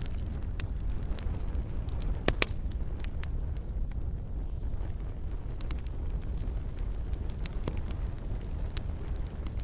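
Wood fire crackling, with a steady low rumble of flames under scattered sharp pops and snaps. The loudest is a quick pair of pops about two and a half seconds in.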